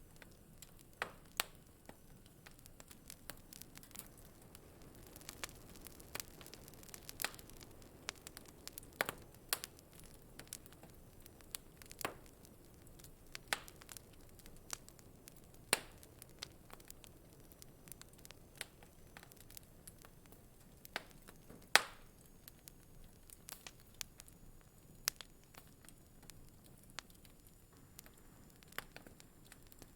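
Wood fire crackling in a fireplace: a soft steady hiss broken by irregular sharp pops and snaps, a few of them much louder than the rest.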